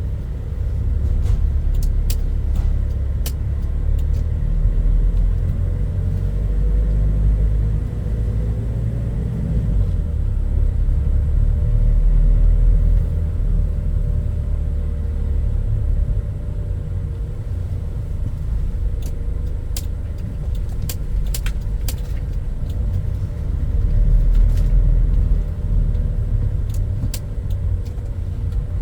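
Toyota Hilux Mighty-X pickup truck being driven, heard from inside the cab: a steady low engine and road rumble with the engine's pitch drifting a little up and down. Scattered short, sharp clicks come through now and then.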